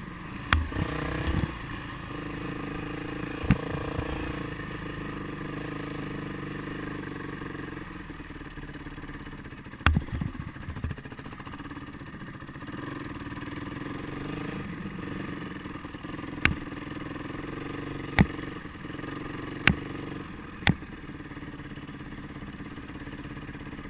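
Motorcycle engine running on the move, its pitch shifting over the first few seconds, with a handful of sharp knocks and rattles scattered through.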